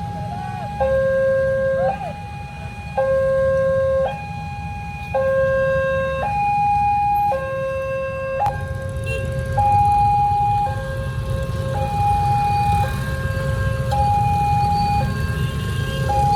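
Two-tone hi-lo siren, alternating evenly between a higher and a lower note about once a second, over a steady rumble of road traffic.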